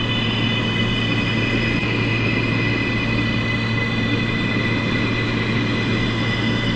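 New York City subway R143 train running at steady speed: a constant rumble with a steady high whine over it that neither rises nor falls.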